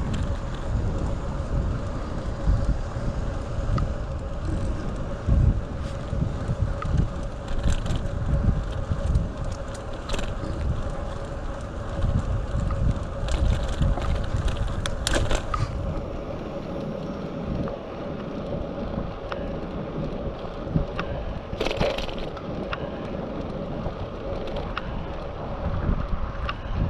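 Wind buffeting the microphone of a GoPro action camera on a moving bicycle, a gusty low rumble that eases a little past the middle, under a faint steady hum and scattered sharp clicks from the ride.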